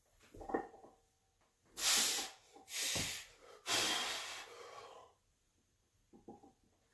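A lifter breathing hard during a heavy bench press set: three loud, hissing breaths about a second apart, the last one longest.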